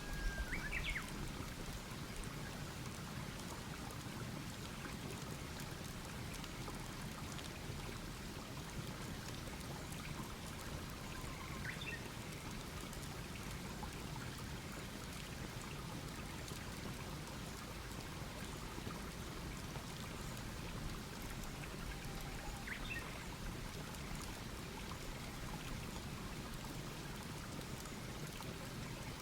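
Wood campfire burning with a steady hiss and faint crackling. A bird chirps briefly about three times, roughly ten seconds apart.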